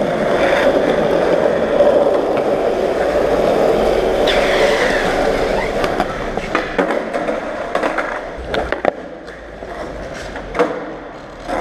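Skateboard wheels rolling over car park ground, loud and steady for about the first six seconds, then quieter, with several sharp clacks of the board's tail and wheels striking the ground in the second half.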